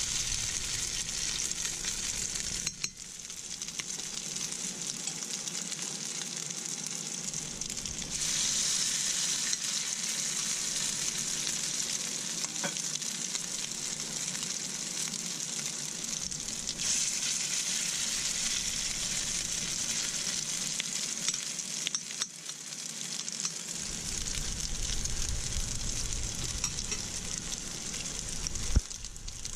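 Salmon patties frying in oil in a stainless-steel skillet, a steady sizzling hiss. A single sharp click near the end.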